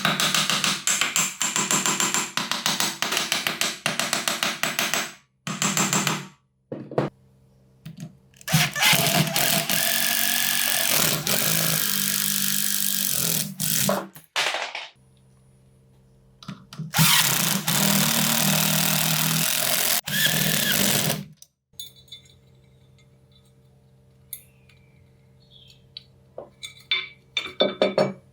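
Electric power tool running in four bursts of a few seconds each, with quiet gaps between them. One burst winds down at its end, and there are light clinks near the end.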